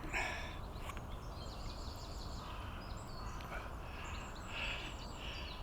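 Small birds singing, a run of short chirps and brief whistled notes, over a steady low background rumble.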